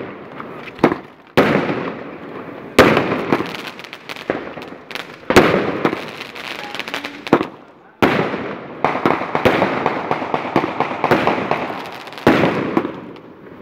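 Fireworks going off: about half a dozen loud bangs at uneven gaps of one to four seconds, each trailing off in a long rumbling echo with crackling.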